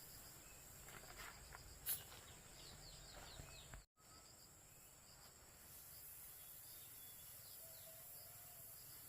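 Faint outdoor ambience: a steady hiss of insects with small, high, falling chirps of birds. There is a single sharp click about two seconds in and a brief total dropout a little later.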